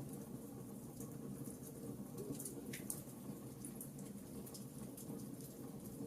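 Wood fire crackling in a fireplace: frequent small sharp pops and snaps over a low steady rumble of burning, with one louder pop about three seconds in.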